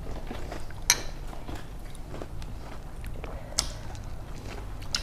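People chewing food, with two sharp clicks of metal cutlery on crockery, about a second in and again some two and a half seconds later, over a low steady hum.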